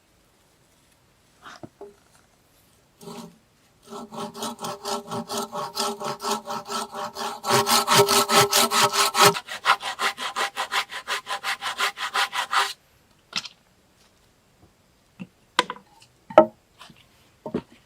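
Hand saw cutting through wood in quick, even back-and-forth strokes, about four a second, loudest partway through, stopping about two-thirds of the way in. A few light knocks of wood follow near the end.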